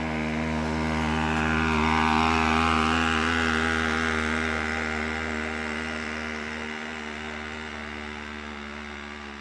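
Small two-stroke weed-trimmer engine running on a friction-drive motorized bicycle as it rides. It grows louder over the first two seconds, then fades steadily as it moves away.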